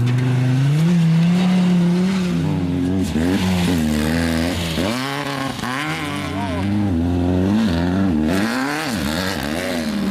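Off-road desert race car or truck engine running hard, its revs rising and falling over and over as it passes.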